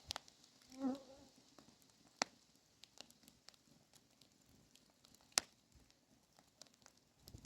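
An insect buzzing briefly past about a second in. Scattered sharp pops and crackles from a wood fire, two of them louder, around two and five seconds in.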